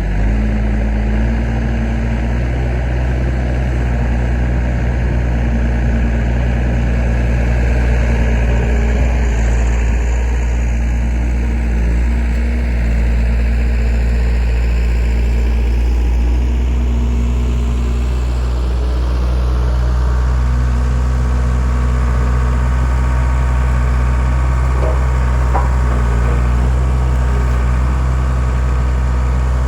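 Skid steer engine running steadily at raised throttle, driving a homemade hydraulic log splitter.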